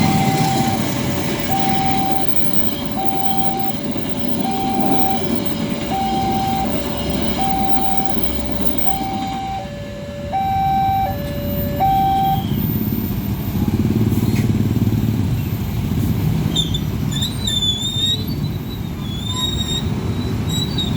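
Level-crossing warning alarm sounding, a high note and a low note alternating about every two-thirds of a second over a steady low rumble of traffic. The alarm stops about twelve seconds in, the usual sign that the train has cleared and the barriers are going up; the rumble carries on, with high chirps near the end.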